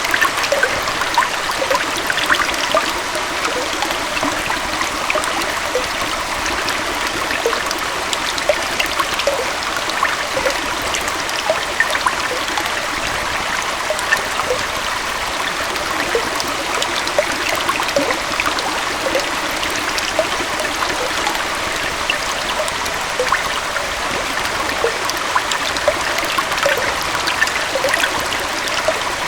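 A gentle forest waterfall pouring into a stream: a steady rush of flowing water, dotted with constant small splashes and trickles.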